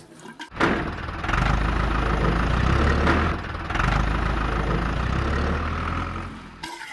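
A small electric motor runs with a steady low hum and a buzzing whir. It starts about half a second in, dips briefly midway, and stops shortly before the end.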